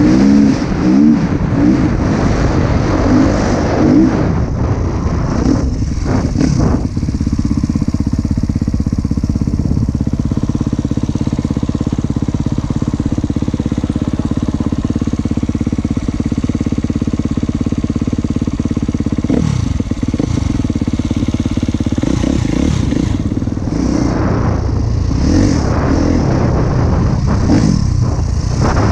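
Husqvarna TC 250 motocross bike engine under way, revving up and down with the throttle for the first several seconds. It then holds a steady note for about fifteen seconds and revs up and down again near the end.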